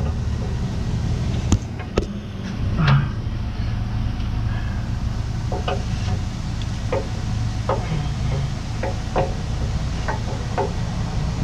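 A truck engine idling steadily under a string of short knocks and clanks: two sharp ones early, then a run of about one or two a second, typical of tow gear being handled during hook-up.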